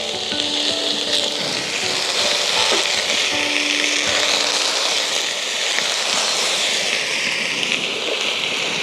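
A steady hiss that swells and eases slowly, under soft background music with long held notes.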